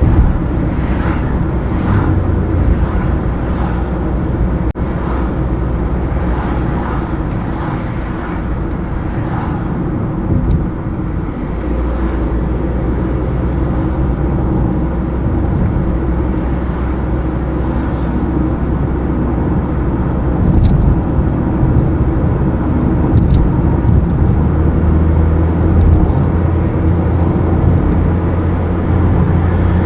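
A car driving on the open road: steady engine hum under tyre and road noise, the engine note shifting a little a couple of times, with a few faint ticks.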